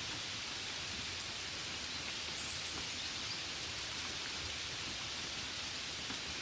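Gentle rain falling steadily, an even hiss with scattered faint drop taps.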